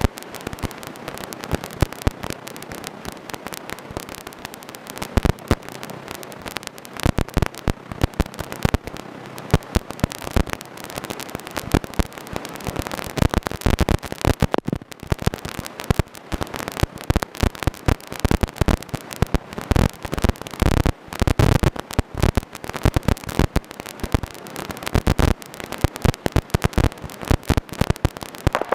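Dense, irregular crackling and popping, many sharp clicks a second.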